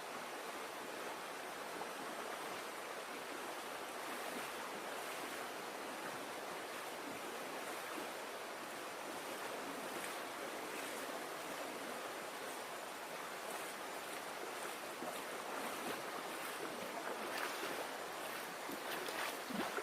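Steady rush of flowing river water. Sharper splashes and knocks come in over it near the end.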